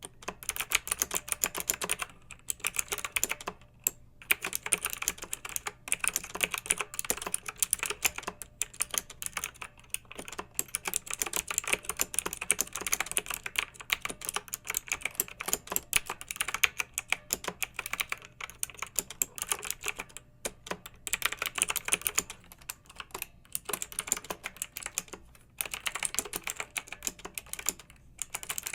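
Clicky mechanical keyboard being typed on in fast, continuous bursts of keystrokes, with a few brief pauses between runs.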